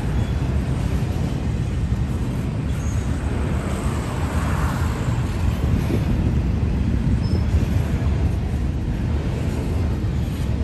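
Double-stack intermodal freight train rolling past: a steady, heavy rumble of steel wheels on the rails under loaded well cars.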